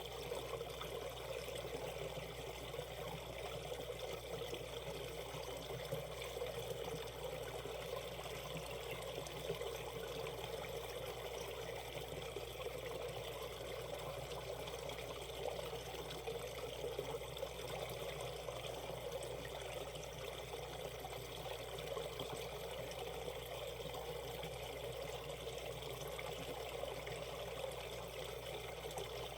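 Shallow valley stream flowing over rocks, a steady trickling and babbling of water.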